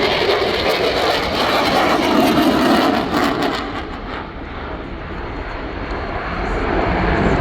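Loud aircraft engine noise from a passing airplane. It fades about halfway through and builds again near the end.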